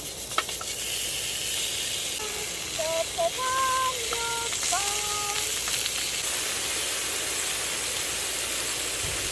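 Food sizzling on a hot pan: a steady, loud hiss that cuts off suddenly at the end.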